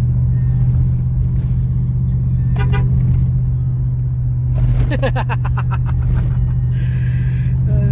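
Steady low drone of a vehicle's engine and road noise, heard from inside the cab while driving.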